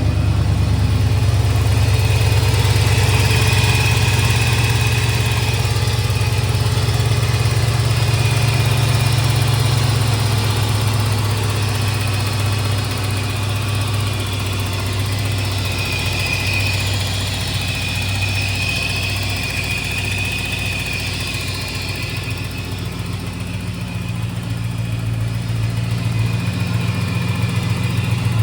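1988 Porsche 928 S4's 5.0-litre 32-valve V8 idling steadily, with a faint high whine coming and going.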